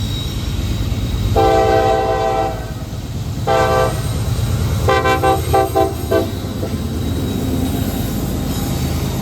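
Freight train cars rolling past with a steady low rumble, while a locomotive's multi-chime air horn sounds one blast of about a second, a short blast, then a quick run of short toots.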